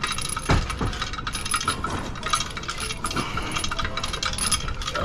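Rapid metallic clicking and clanking of hand tools working on a car's engine and drivetrain, with a sharper knock about half a second in.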